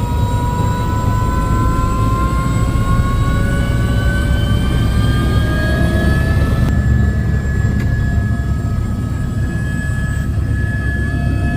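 Helicopter running with a steady low rumble and a turbine whine that rises in pitch over the first half, then holds level.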